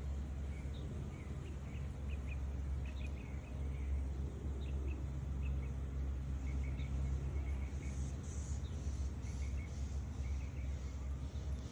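Outdoor ambience: a steady low rumble with small birds chirping on and off and insects buzzing, the insects more noticeable in the second half.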